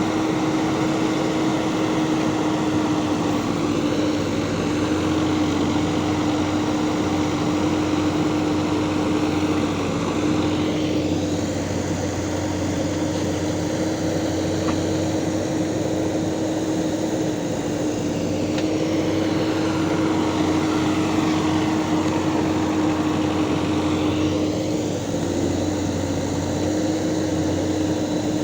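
Backhoe loader diesel engine running steadily with a constant hum, a slow sweeping change in its upper tone now and then as the machine works.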